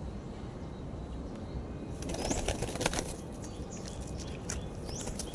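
Pigeon wings flapping. Steady background noise for the first two seconds, then a run of sharp wing clatters with a couple of short high squeaks.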